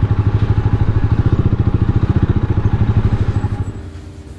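Rusi Classic 250 motorcycle engine running under way, a loud, rapid, even pulsing of exhaust beats. Near the end it drops away and steady tones take over.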